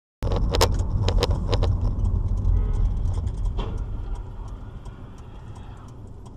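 A moving car's low rumble of road and engine noise, with several sharp knocks in the first two seconds and one more a little later. The rumble grows quieter over the last couple of seconds.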